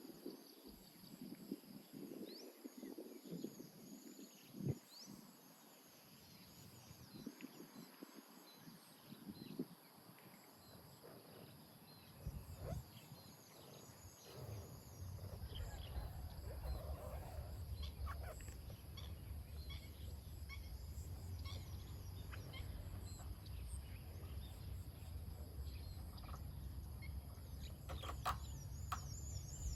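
Outdoor ambience with birds chirping intermittently; about halfway through a steady low rumble sets in and continues.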